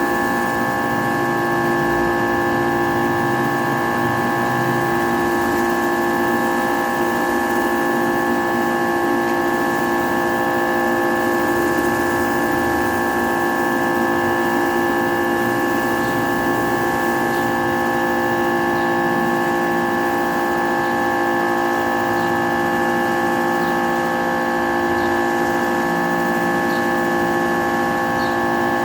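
Kärcher K3.30 electric pressure washer running steadily under load, its motor and pump giving a loud, unchanging whine made of several pitched tones.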